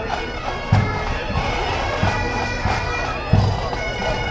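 Bagpipes playing, their steady drones under a moving melody, with a deep drum beat about every second and a bit.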